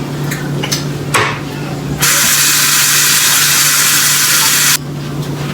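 A loud, steady hiss that cuts in about two seconds in and stops abruptly almost three seconds later, after a few faint clicks of handling.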